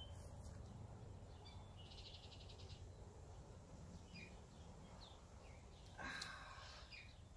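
Near silence with faint birdsong: scattered chirps and a short rapid trill about two seconds in. A brief soft noise near the end.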